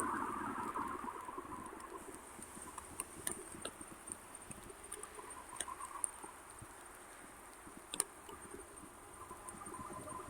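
Quiet background at a railroad crossing, with a faint steady high whine and scattered light ticks; near the end an approaching train's noise begins to build.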